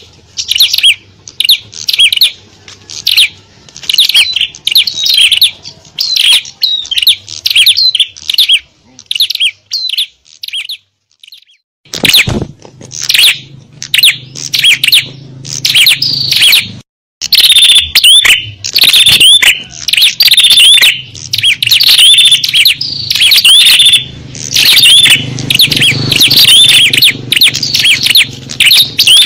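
Small songbirds chirping and twittering in quick, high, busy bursts: a lure call played to draw small birds. The calling breaks off for about two seconds near the middle, then comes back denser and louder.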